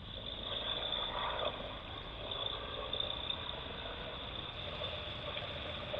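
BMW R1200GS Adventure motorcycle's boxer-twin engine running steadily under way, with wind and road noise.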